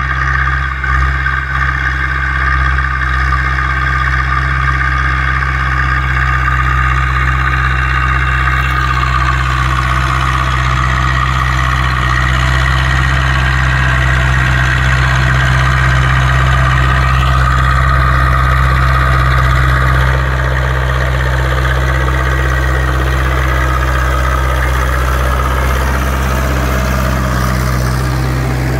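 Zetor 6245 tractor's four-cylinder diesel engine running steadily while pulling a three-furrow reversible plough. The level drops slightly about twenty seconds in.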